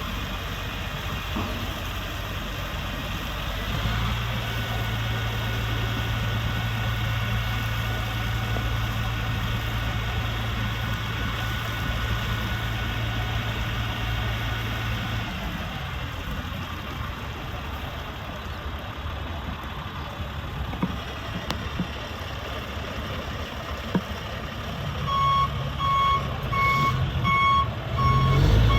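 2007 Freightliner M2 dump truck's diesel engine running steadily, its note stronger and held from about four seconds in until about fifteen seconds in, then settling back. Near the end the truck's reversing alarm starts beeping in an even rhythm.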